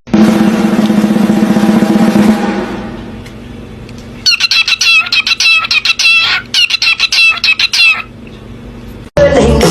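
A loud steady pitched drone for the first couple of seconds. Then, from about four seconds in, two rapid runs of short, high, wavering bird calls, like clucking, with a brief break between them.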